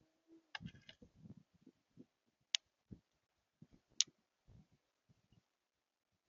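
Irregular soft knocks and clicks of birds pecking and landing at a seed feeder, with two sharp louder clicks about two and a half and four seconds in.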